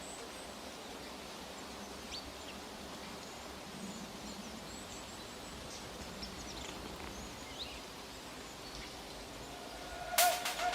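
Outdoor ambience: steady background noise with a few faint, short bird chirps, then a quick cluster of sharp clicks near the end.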